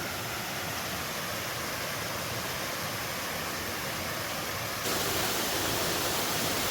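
Waterfall rushing in a steady, even roar, which gets abruptly louder about five seconds in.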